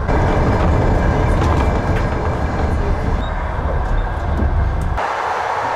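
A passenger train running, heard from inside a sleeper car's corridor: a steady deep rumble of the carriage rolling on the rails. About five seconds in, the deep rumble drops away abruptly and a thinner noise is left.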